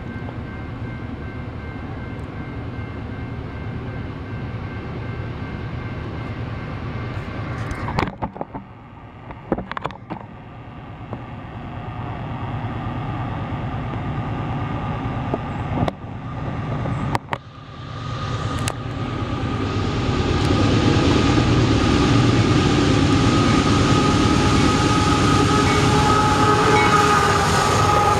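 A railroad train running, a steady rumble that grows louder from about two-thirds of the way in, with steady high tones on top as it comes close. A few sharp knocks come in the middle.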